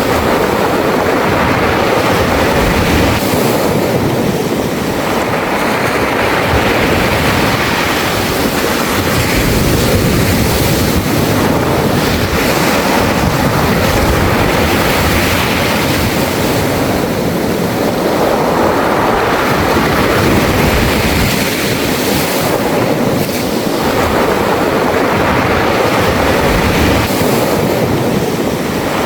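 Surf washing over a beach of round, smooth pebbles (mongdol), with waves breaking and the stones rolling and rattling in the backwash. The sound swells and eases every several seconds as each wave comes in and draws back.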